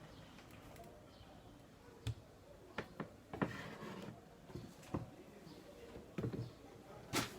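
Scattered light knocks and clicks, about eight over several seconds, from small objects being handled and set down, the loudest near the end.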